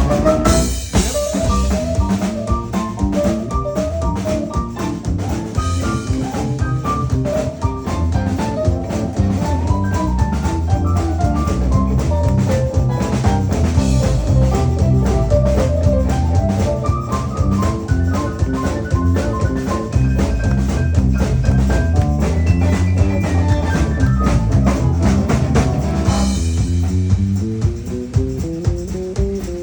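Live band playing an instrumental passage: a drum kit keeping a steady beat under bass and a moving melody line. The cymbals thin out near the end.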